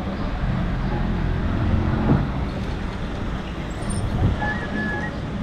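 City street traffic: a motor vehicle's engine rumbles past, loudest about two seconds in, over a steady background hum of the street.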